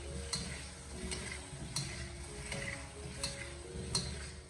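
Chicken drumsticks sizzling in caramelised sugar as they are stir-fried with a wok spatula. The spatula scrapes and clicks against the pan about every second or less.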